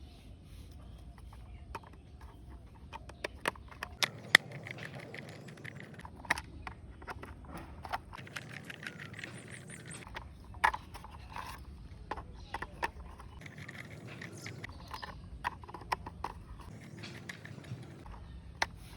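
Small screws being driven with a screwdriver into a plastic toy car body: irregular clicks and taps with faint scraping of metal on plastic.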